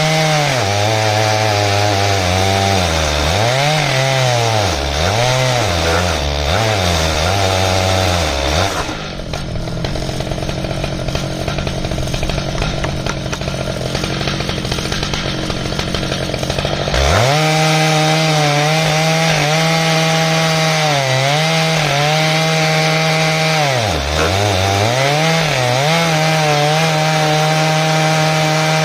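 Stihl MS 881 two-stroke chainsaw on an Alaskan mill, running at high speed while ripping through an ash log, its engine note repeatedly sagging under load and recovering. For about eight seconds in the middle the note drops to a lower, rougher sound, then climbs back to full speed and keeps cutting.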